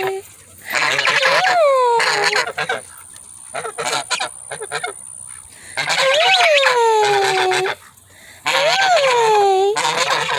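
Domestic geese honking: three loud, long calls, each rising and then falling in pitch, with a quieter stretch of quick clicks between them.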